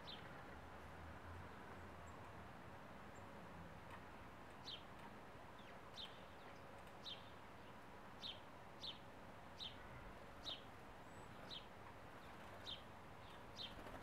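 A small bird chirping repeatedly: short, high, slightly falling chirps about once a second, starting about four seconds in, over a faint steady background hiss.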